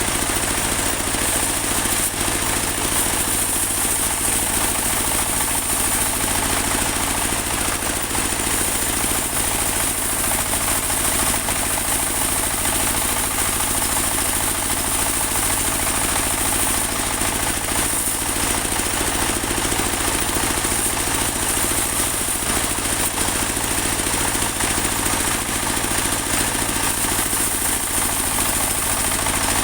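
Engine-driven mobile band sawmill running steadily, with an even high hiss above the engine.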